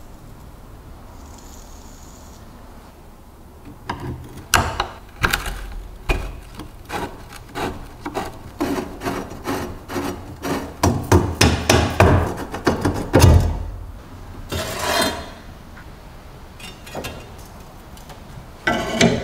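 Hand tools knocking and tapping on the rusty bread cutter in a dense run of sharp strikes from about four seconds in. A short scraping rub comes near fifteen seconds, and a fresh run of strikes starts at the very end.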